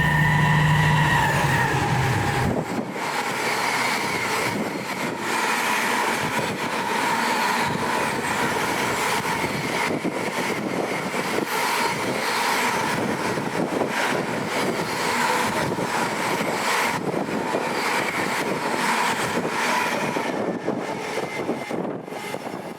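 Train at the station: a low engine hum stops abruptly about two and a half seconds in, then a steady rumble of wheels on rail with a faint whine and repeated clicks.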